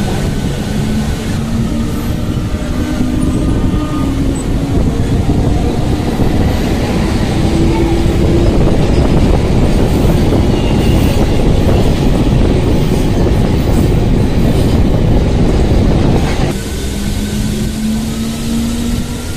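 Electric local train pulling out and gathering speed, heard from an open doorway: a motor whine rising steadily in pitch over a dense rumble and rush of wheels and wind. About three-quarters of the way through, the rush drops abruptly and the whine starts rising again from a lower pitch.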